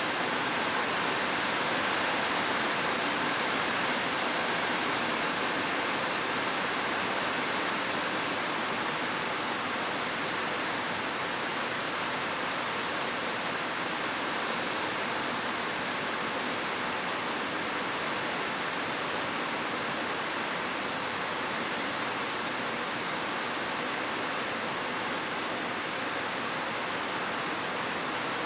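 Steady heavy rain, a dense, even hiss with no single drops standing out.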